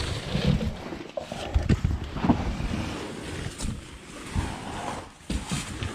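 Scraping, rustling and dull knocks of a caver crawling and squeezing through a tight cave passage with a backpack. The scuffs come irregularly throughout.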